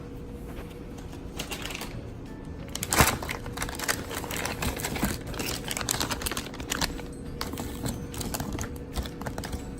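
Light clicking and clattering of food items being put back into plastic storage containers, with a sharper knock about three seconds in, over quiet background music.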